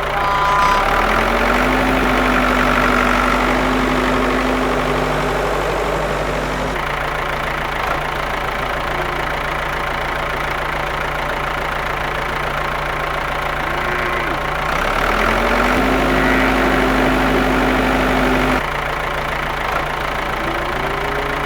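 A small electric motor whirs on and off over a steady background hum. It spins up with a brief rising pitch about a second in and holds steady for several seconds before stopping. It then starts again with another brief rise partway through and stops a few seconds before the end.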